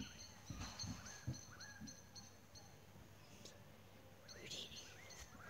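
Faint background birdsong: quick runs of high chirps and short whistled notes, pausing in the middle and coming back near the end, with a couple of light low bumps in the first second and a half.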